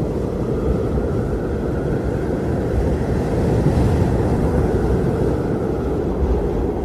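Strong wind blowing steadily, a deep rushing noise, swelling slightly about halfway through.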